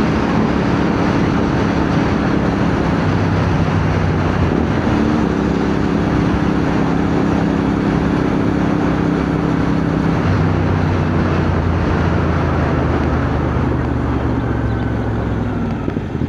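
Motorcycle engine of a CFMoto 450NK running at road speed, under a steady rush of wind, with its note changing pitch a few times as the throttle and gears change.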